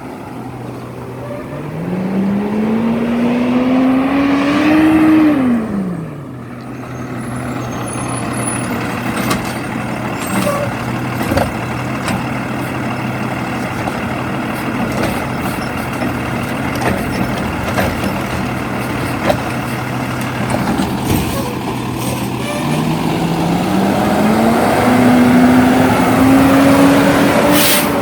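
Garbage truck's diesel engine idling steadily, revving up twice for about four seconds each, near the start and again near the end, the pitch climbing and then falling back quickly, as the engine speeds up to drive the truck's hydraulics. A few short knocks and clanks between the revs.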